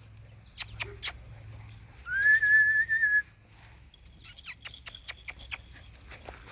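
A single whistled note, sliding up briefly and then held for about a second, as a call to the puppies. Scattered sharp rustling clicks come before and after it, more of them in the second half.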